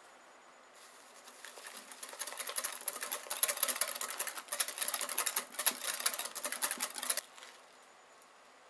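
Wire whisk beating rapidly against a mixing bowl, a fast run of clicking and scraping. It builds up about a second in and stops abruptly about seven seconds in.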